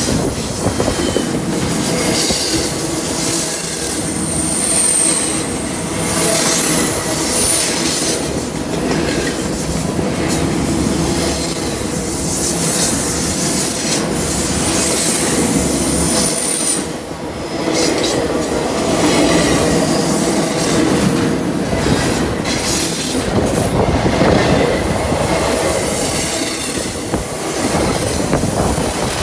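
A double-stack intermodal freight train rolling past close by: a steady rumble and clatter of loaded well cars on the rails, with high wheel squeals coming and going.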